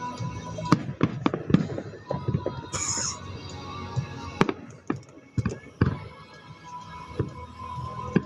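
Fireworks going off: an irregular string of sharp bangs, with a brief high hiss about three seconds in.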